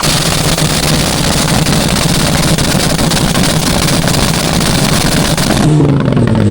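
Car engine held at high revs with a loud rasping exhaust note. Near the end the noise drops and the revs fall away.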